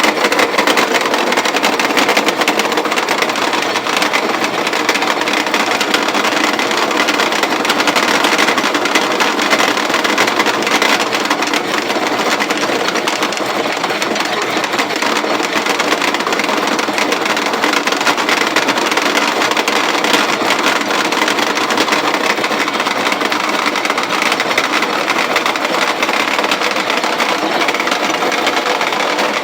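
Antique grain roller mill running steadily, crushing grain between its rollers: a loud, even mechanical clatter and rumble.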